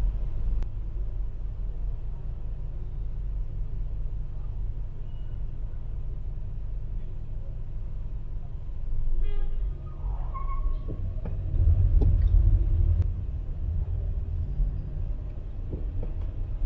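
Street traffic rumbling steadily, with a vehicle passing close and louder about twelve seconds in. A brief pitched sound, like a short toot or call, comes about nine seconds in.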